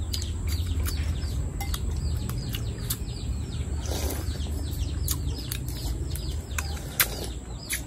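Birds chirping: a steady stream of many quick, falling chirps, with a few sharp clicks, one louder about seven seconds in, over a steady low rumble.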